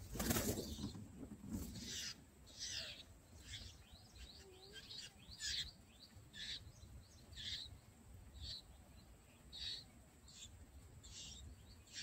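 A brief flutter of bulbul wings at the start, then a series of short, high, down-sweeping chirps, about one a second.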